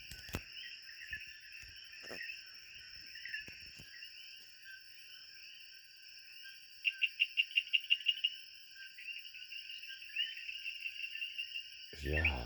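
Rainforest night chorus of crickets and other insects: a steady high-pitched drone with a busy layer of chirping beneath it. About seven seconds in, a louder call cuts through as a rapid series of even pulses, about seven a second, for over a second.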